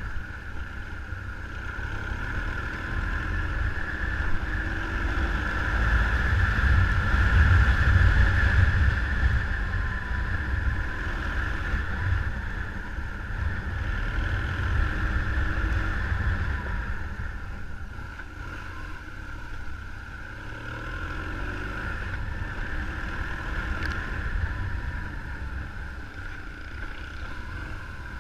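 A motorcycle engine running while the bike is ridden, with low wind rumble on the microphone. The level swells and eases over several seconds.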